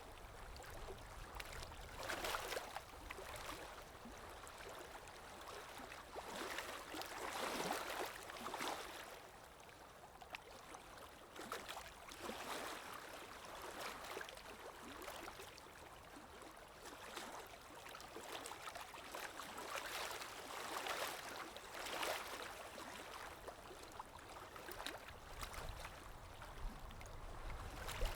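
Underwater water ambience: a continuous bubbling, swirling wash of water that swells and eases every few seconds.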